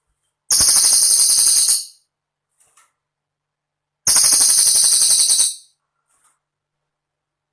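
Cililin bird singing: two rapid, high-pitched rattling trills of about a second and a half each, a couple of seconds apart.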